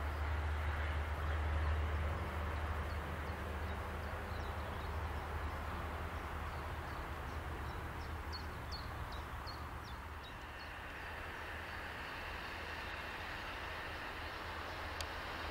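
Distant rumble and rising rail hiss of an approaching train, a DB class 101 electric locomotive hauling Intercity coaches, growing louder over the second half. A low rumble fades over the first half. A bird gives a series of short chirps in the middle.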